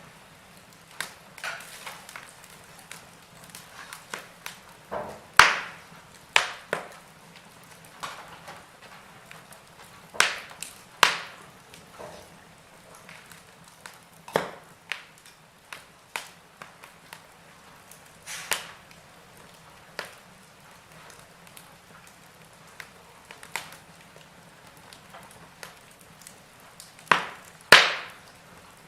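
Wood fire in a fireplace crackling: irregular sharp pops and snaps from the burning logs over a faint steady hiss, with a few louder pops close together near the end.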